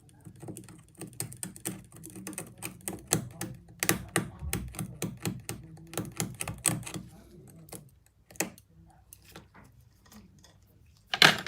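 Quick, irregular clicking and tapping of small repair tools, dense for about seven seconds, then a few scattered clicks and one sharp, louder knock near the end.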